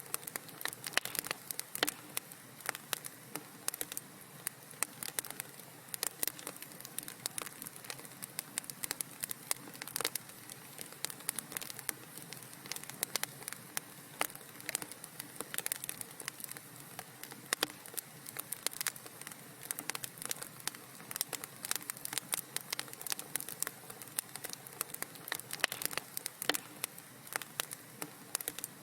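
Fire crackling in a fireplace: dense, irregular pops and snaps over a soft steady hiss.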